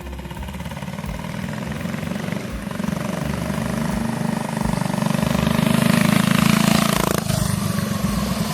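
Mini bike's small single-cylinder engine running under throttle, growing louder to a peak about six seconds in, then dropping off suddenly a little after seven seconds.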